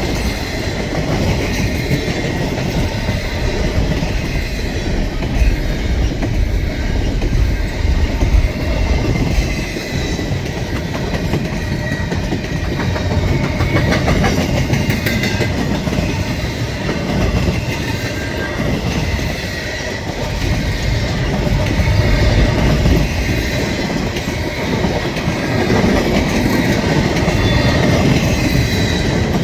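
Double-stack container train cars rolling past at close range: a steady, loud rumble of steel wheels on rail with rhythmic clickety-clack over the joints.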